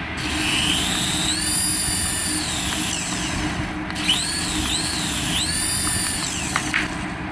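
A toy's small electric motor whirring, its whine rising and falling several times as it speeds up and slows down, the longest swell about a second in.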